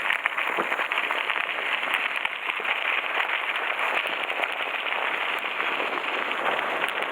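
Mountain bike tyres rolling over a loose gravel road, a dense, steady crackle of stones with many small sharp clicks.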